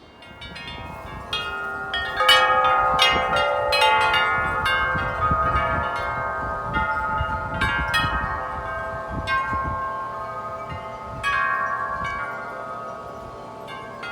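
Several large tuned metal-tube wind chimes ringing in strong gusts: many overlapping strikes that ring on, thickest in the first half and thinning out later, with one fresh clang about three-quarters through. Low wind rumble sits underneath during the busiest part.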